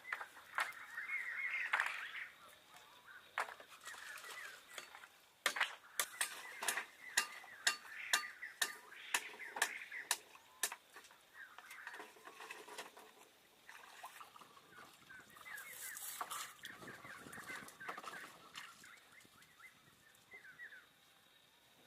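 Fowl clucking and calling in short repeated notes, with a quick run of sharp knocks, two or three a second, through the middle.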